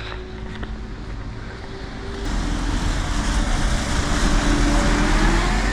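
Street traffic: a motor vehicle approaches and passes close by. Its noise swells about two seconds in, and a faint engine tone slowly rises in pitch.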